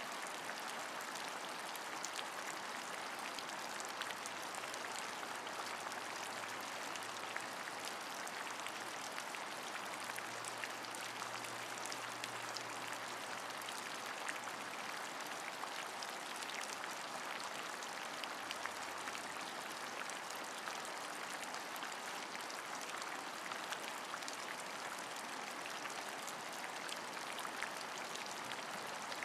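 Steady rain, a constant hiss with many small drops ticking and pattering on a surface.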